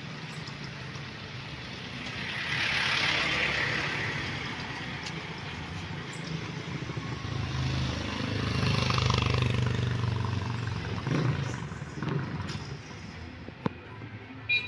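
Street traffic: motor vehicles passing by, two passes that swell and fade, the second with a low engine hum. A couple of sharp clicks near the end.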